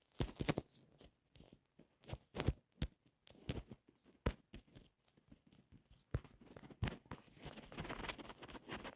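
Irregular sharp taps and clicks with crunchy rustling, growing into a denser crackle over the last few seconds.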